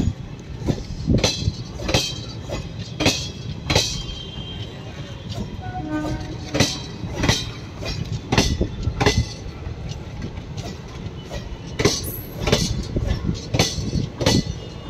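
Indian Railways passenger coaches rolling past slowly, wheels clicking over the rail joints in pairs of sharp strikes over a steady low rumble.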